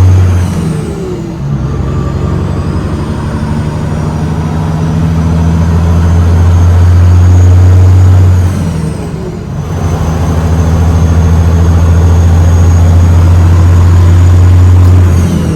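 Diesel engine of a 2006 Peterbilt 379 semi truck with a manual transmission pulling under load. The engine note drops with a falling pitch as it is shifted about a second in and again around nine seconds, then builds steadily in the next gear.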